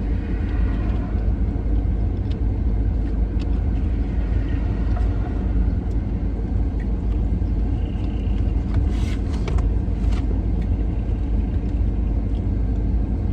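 Steady low rumble of a car heard from inside the cabin, with a few faint clicks about nine to ten seconds in.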